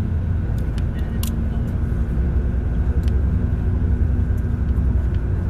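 An engine running steadily with a low, even hum, with a few faint light ticks over it.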